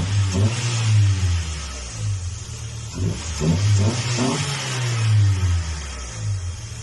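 Car engine fitted with an aftermarket high-flow air filter, revved in several short blips, the engine and intake sound swelling and falling back each time.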